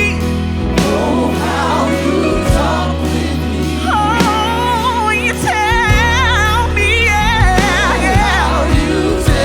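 Live worship music: singers carrying a gospel-style melody over a band with steady bass and drums.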